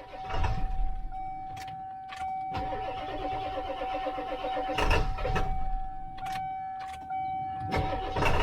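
1997 Ford F-350's 7.3-litre Power Stroke V8 diesel being cranked by the starter on a weak battery. It cranks rhythmically and gets louder, then fires unevenly near the end, on injectors that are leaking.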